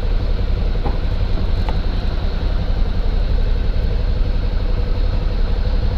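Suzuki V-Strom 650's V-twin engine running steadily while the bike is ridden, with wind and road noise under it.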